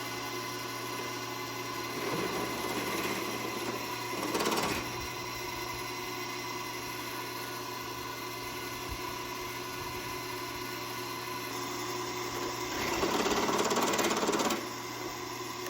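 Electric drill press motor running steadily with a constant hum, with two louder, rougher stretches, about two to five seconds in and again near the end, as the bit works into the part.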